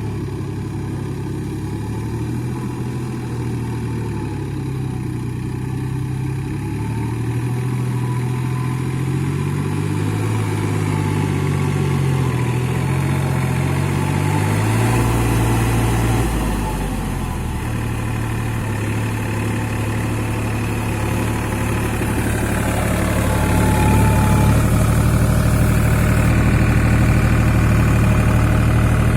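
New Holland 4710 tractor's diesel engine running, its pitch wavering up and down for a while and then getting steadier and louder near the end.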